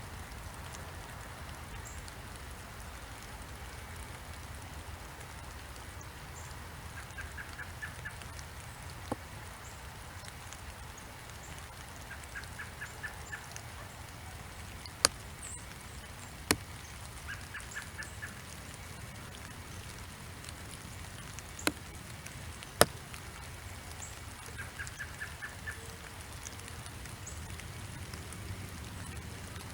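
Backyard ambience: a bird repeats a short song of about five quick even notes every five seconds or so, over a steady low rumble with faint high chirps. Four sharp ticks, the loudest sounds, come in two pairs about halfway through.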